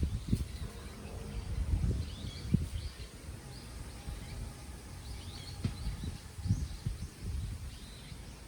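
Wind gusting, buffeting the microphone in low rumbles that rise and fall, while small birds chirp in short, high calls again and again.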